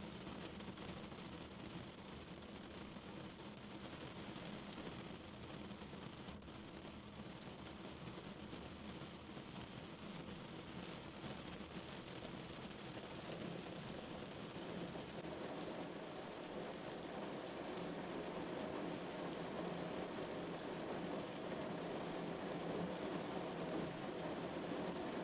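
Rain falling on a car, a steady patter of drops that grows heavier and louder over the second half.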